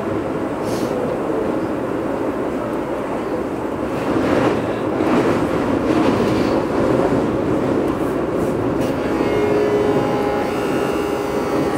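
Keio 8000 series electric train running, heard from above its Hitachi GTO-VVVF inverter: a steady rumble of running noise that gets louder about four seconds in. Near the end, the inverter's electromagnetic whine comes in as steady tones over the rumble.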